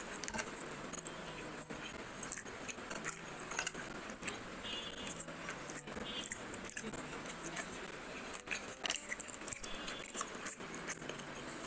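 Close-miked eating sounds: chewing and wet mouth smacks while eating fried fish by hand, with irregular clicks several times a second.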